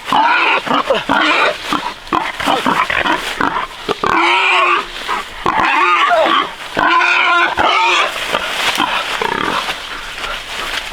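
Pigs squealing loudly, a run of pitched calls one after another.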